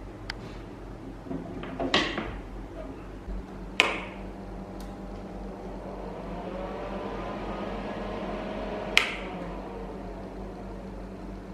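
Steady low hum with a handful of sharp clicks and knocks, the loudest about two, four and nine seconds in.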